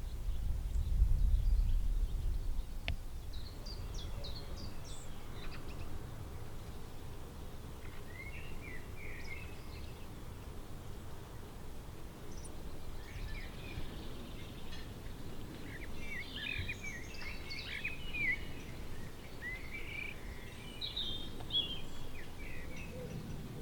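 Small birds chirping and singing in short, scattered phrases, busiest in the second half, over a steady outdoor background hiss. A low rumble in the first couple of seconds is the loudest part.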